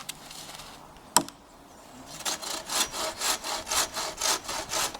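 Hand saw cutting through wood in quick, even back-and-forth strokes, about four a second, starting about two seconds in. A single sharp knock comes about a second in.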